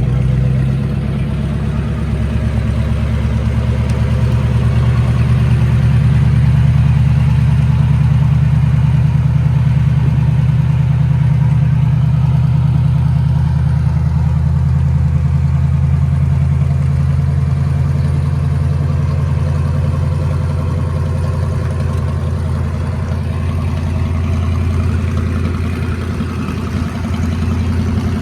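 Antique tractor engine running steadily at a low, even speed.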